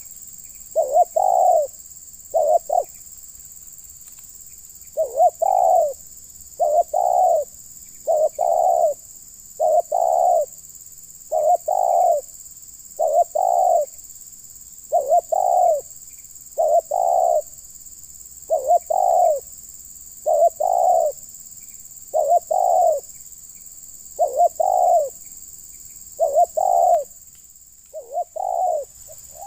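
Spotted dove (terkukur) cooing: a short, rolling coo repeated steadily about every one and a half to two seconds, with one brief pause about three seconds in.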